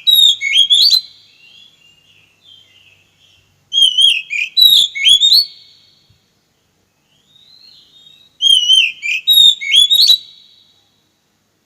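Oriental magpie-robin singing: three loud, near-identical phrases about four seconds apart, each a warbled whistle with quick rising notes and a few sharp clicks, with faint short calls between them.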